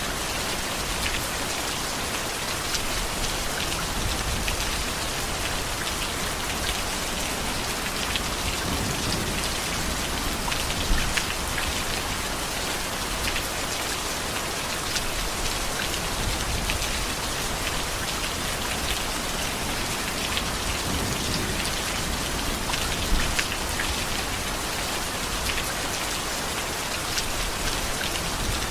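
Heavy rain falling steadily, with individual drops ticking sharply now and then on a nearby surface.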